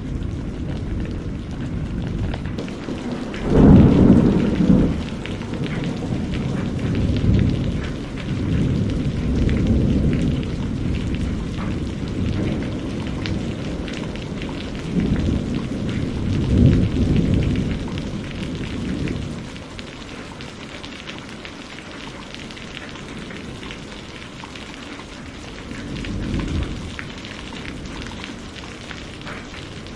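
Steady rain with thunder rumbling again and again. The loudest peal comes about three and a half seconds in, with further long rolls after it, and the thunder eases off somewhat after about twenty seconds while the rain keeps falling.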